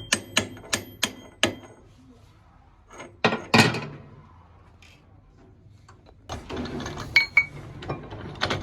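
Steel being struck or handled in a metal shop: a quick run of sharp, ringing metallic taps, then a few heavier knocks, then a stretch of rougher metal clatter near the end.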